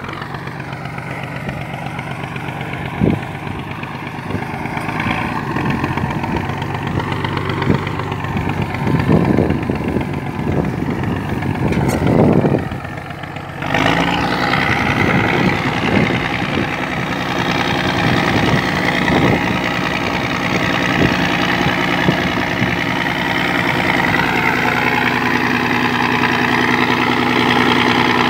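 Scania 113 eleven-litre six-cylinder diesel engine running a sand dredge, a steady heavy drone with some clatter. A little before 13 seconds in, the sound dips briefly, then comes back louder and stays steady.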